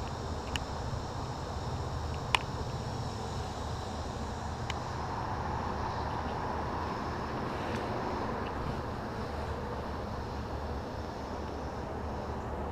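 Steady hum of a honeybee colony in an open hive, with a few sharp clicks of hive equipment being handled, the loudest about two seconds in.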